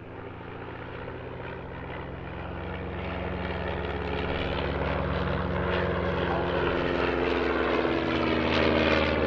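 Propeller-driven light aircraft engine drone, growing steadily louder as it approaches on a flypast; near the end it peaks and the pitch drops slightly as it passes.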